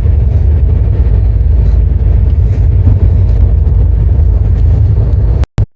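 A passenger train running, heard from on board: a loud, steady low rumble, which cuts out briefly near the end.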